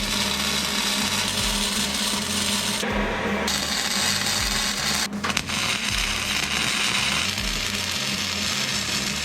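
A power tool working metal gives a loud, rough, continuous noise whose character shifts abruptly a few times, with background music underneath.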